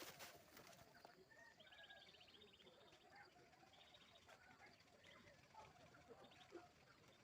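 Faint outdoor ambience with small birds chirping and trilling.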